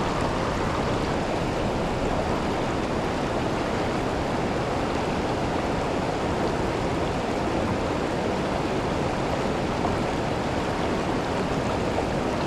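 Steady rushing of the Milwaukee River's water at Kletzsch waterfall, an unbroken roar with no let-up.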